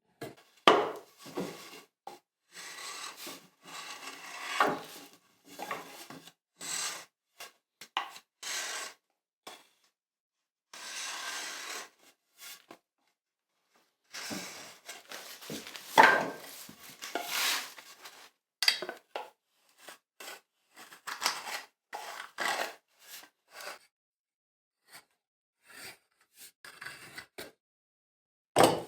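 Hand woodworking tool cutting wood in repeated scraping strokes, each a second or two long with short pauses, becoming shorter and quicker in the second half, with a few sharp knocks.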